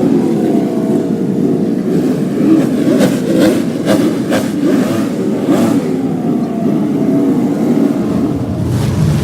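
Car engine running and being revved, its pitch rising and falling. A deeper rumble comes in near the end.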